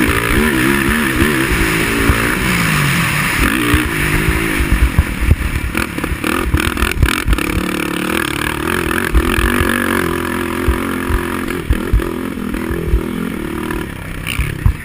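Racing quad (ATV) engine revving up and down over and over as it is ridden hard, under a steady rushing noise. Several sharp knocks and clatter come in around the middle.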